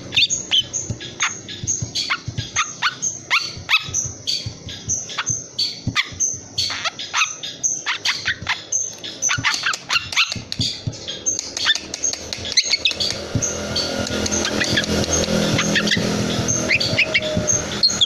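Young long-tailed shrike (cendet), about three months old, calling in a rapid run of short, sharp, harsh notes, several a second. A low steady background noise comes up under the calls for the last few seconds.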